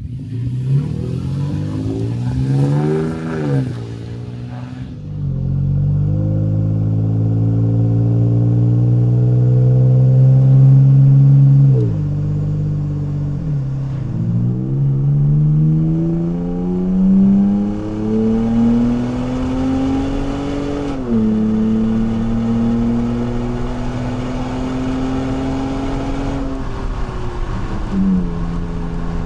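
Toyota Tacoma 3.5-litre V6 running through a stainless side-exit catback exhaust. It revs up and back down once, then accelerates: the pitch climbs slowly and drops sharply twice at the gear changes. It then holds a steady note, easing off slightly near the end.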